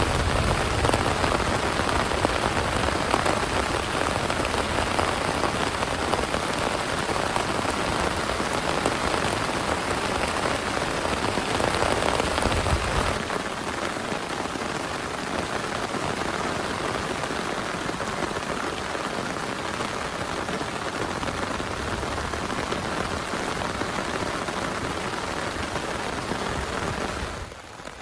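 Heavy rain falling steadily, a dense even hiss of drops. In the first half a deep low rumble lies under it, which drops away abruptly about halfway through; near the end the rain turns suddenly quieter.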